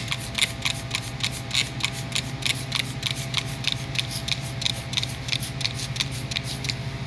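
Trigger spray bottle of degreaser being squirted in quick repeated pulls, about four or five short hissing sprays a second, over a steady low hum.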